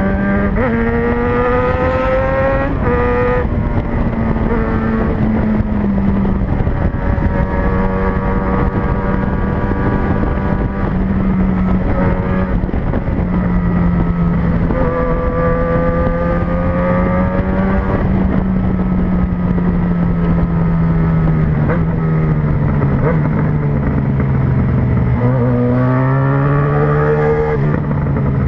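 Yamaha XJ6N's 600cc inline-four engine running under way, its pitch rising and falling with throttle and gear changes. Its note sinks through the middle and climbs again near the end.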